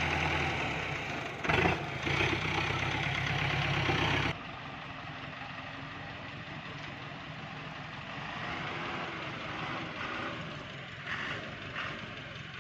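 Diesel engine running steadily, with a couple of louder knocks near the second mark. About four seconds in the sound cuts abruptly to a quieter, steady engine hum.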